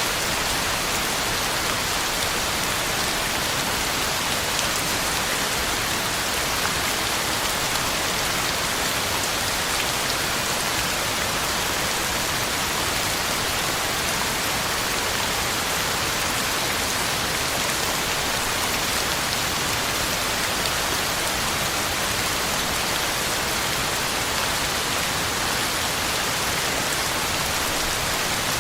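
Heavy rain falling steadily on the ground and leaves, an even hiss of drops.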